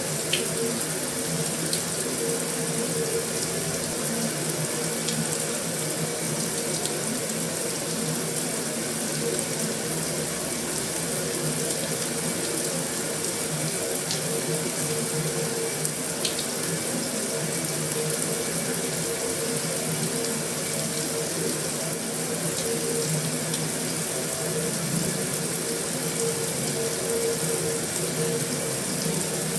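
Heavy rain falling steadily on a metal roof, an even hiss with a few sharper drop taps standing out now and then.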